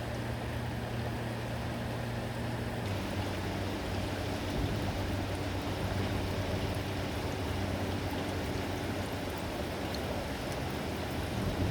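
Mack front-loader garbage truck's engine running steadily with a low hum over a noisy rush; about three seconds in the engine note drops slightly and settles at a new steady pitch.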